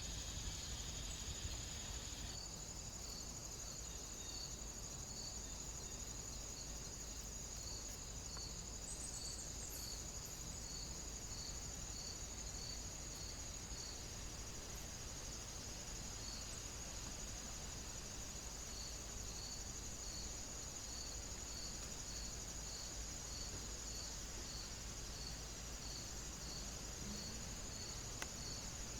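Crickets and other night insects: a steady high-pitched trill with a regular chirp repeating a little more than once a second, over a faint low rumble.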